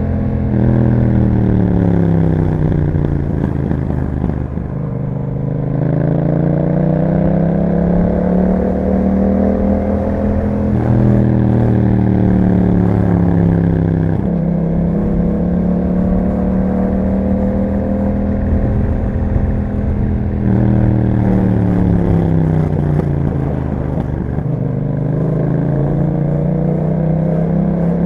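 2021 Yamaha MT-07's parallel-twin engine through an Akrapovic exhaust, running under way. Its note drops as the bike slows, climbs again as it accelerates, and jumps abruptly a few times between.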